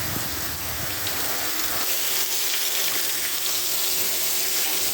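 Steady rain falling and pattering on surfaces, with a low rumble under it for the first two seconds or so.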